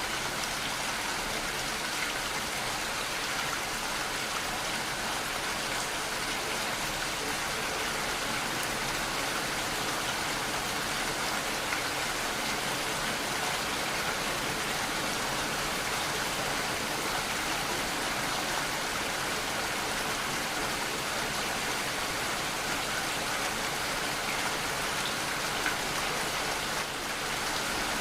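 Steady rainfall: a continuous, even hiss of rain falling, with the patter of drops on surfaces.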